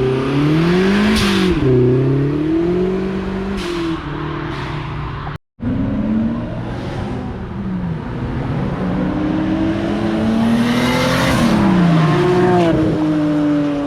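Car engines revving and accelerating hard, their pitch climbing and dropping repeatedly through gear changes. The sound cuts out to silence for an instant about five and a half seconds in.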